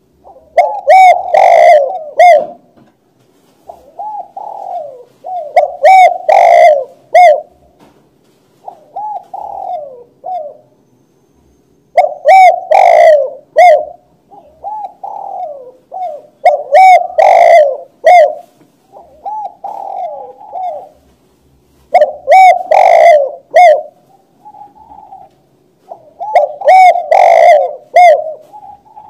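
Spotted dove (tekukur) cooing its repeated song, a few rolling coos per phrase, with a loud phrase about every five seconds and fainter phrases in between.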